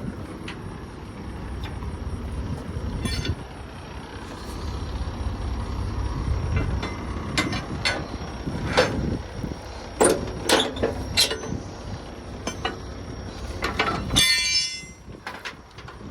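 Metal clanks and knocks over a steady low engine rumble, with a brief rapid clicking rattle about fourteen seconds in.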